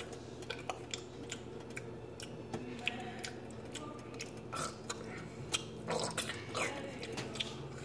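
Quiet chewing of a mouthful of food, with scattered light clicks of a metal fork in a stainless steel frying pan.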